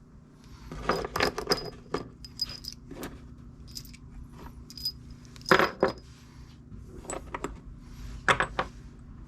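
Small steel parts of a diff lock actuator, its balls and ring, clinking and tapping together as they are handled: a scatter of light metallic clicks with a short high ring, loudest a little past halfway and again near the end.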